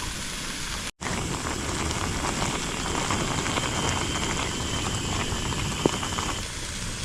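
Food sizzling and spitting in a pan on a camping gas stove: a steady hiss that drops out for a moment about a second in, then comes back louder.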